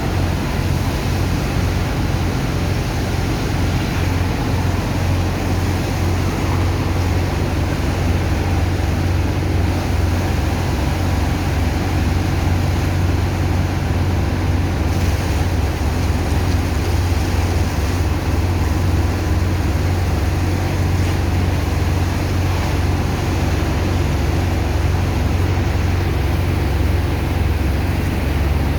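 Sand dredger's engine and pump running steadily while unloading sand from a ship: a loud, low, pulsing engine hum under a continuous rushing hiss.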